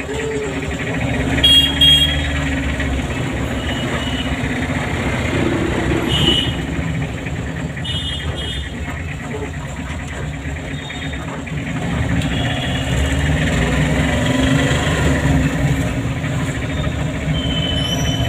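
Car driving through town traffic: a steady engine and road rumble, with a few short high-pitched beeps. The loudest two come about one and a half and two seconds in, and more follow around eight seconds in and near the end.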